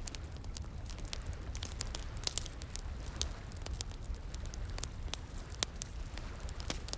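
Wood fire crackling, with sharp, irregular pops, a quick cluster of them about two seconds in, over a steady low rushing background.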